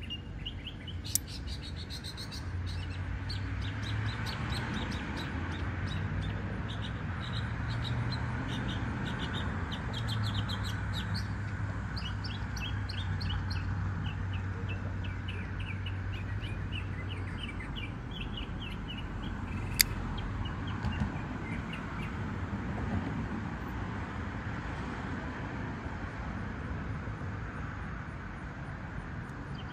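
Small birds chirping in quick repeated calls, over a steady low hum. A sharp click sounds about a second in, and a louder one near twenty seconds in.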